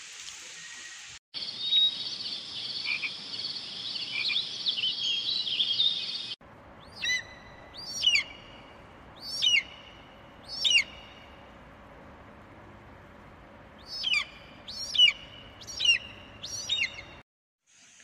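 A dense chorus of night frogs and insects, then, after a cut, a bird calling over the faint steady rush of a stream. The bird gives a series of loud, sweeping high calls: four spaced about a second and a half apart, a pause of a few seconds, then four more in quicker succession.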